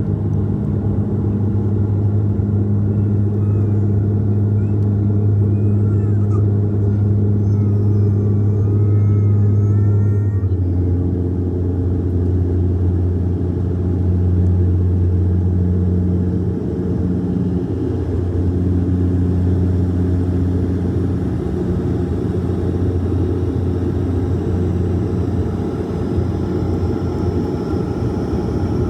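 Cabin drone of a Bombardier Q400's Pratt & Whitney PW150A turboprops and six-blade propellers running at high power, a loud steady drone over a deep propeller hum. About ten seconds in, the hum shifts slightly lower and its pattern changes, as the propeller and engine settings change.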